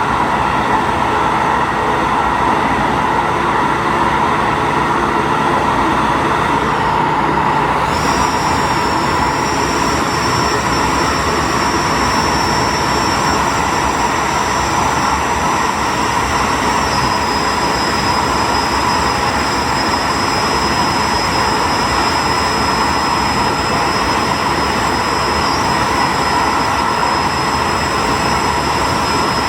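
Diesel train running along the line, heard from the driver's cab: a steady mix of engine and wheel-on-rail noise, with a thin high whine coming in about eight seconds in.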